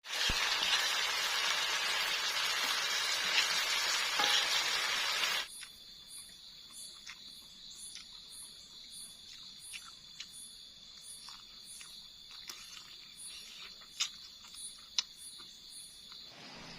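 Food sizzling in a hot pan, cut off suddenly about five seconds in. Then night insects: a steady high trill with pulsing chirps about twice a second, and a few sharp clicks.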